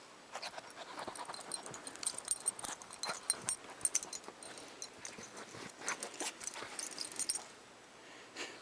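A puppy panting softly and moving about, with a run of quick light clicks and faint high tinkles from about two seconds in until shortly before the end.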